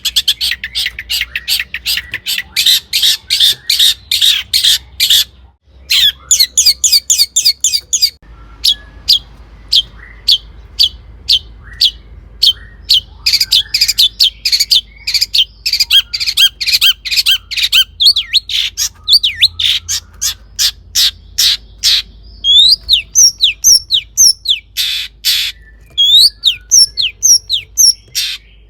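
Long-tailed shrike singing in fast runs of sharp, harsh repeated notes, several a second, with a brief break about five seconds in; toward the end the notes turn into short sweeping whistles.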